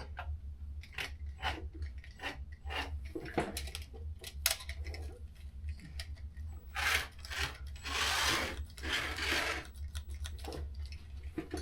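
Carrera GO!!! slot cars and plastic track: irregular sharp clicks and a few short rasping runs, typical of cars running and being handled on the track, over a steady low hum.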